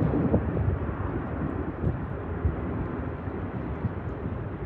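Distant jet airliner engines rumbling steadily, easing slightly in level over a few seconds.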